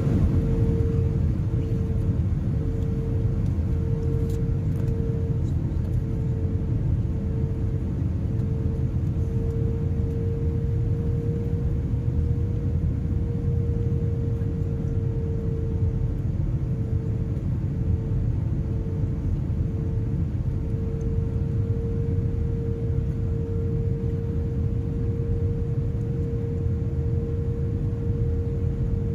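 Steady low rumble of an airliner's engines and airflow heard from inside the cabin in flight, with a droning tone over it that pulses unevenly for the first half and then holds steady.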